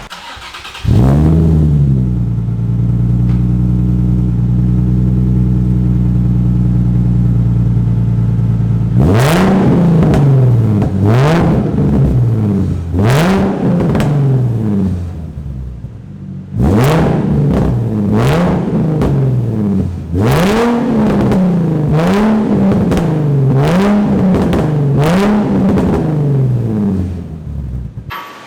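Cold start of a Nissan 350Z's VQ35HR V6 through factory headers, an ISR test pipe and Y-pipe and a 3-inch exhaust to a Vibrant muffler, with several exhaust leaks. It catches about a second in with a brief flare, settles into a steady fast idle, then from about nine seconds is blipped repeatedly, roughly one rev every second and a half with a short pause in between, and cuts off near the end.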